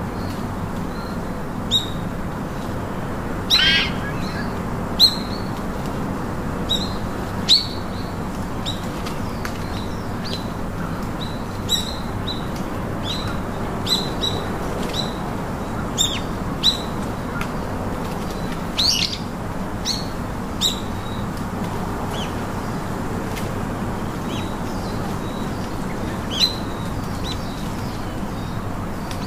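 Birds chirping: short, sharp, falling chirps repeated at irregular intervals, with a couple of longer descending calls, over a steady low background noise.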